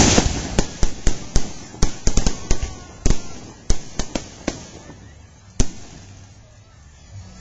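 Fireworks going off: a quick, irregular run of sharp bangs that thins out, the last about five and a half seconds in, followed by a quieter stretch.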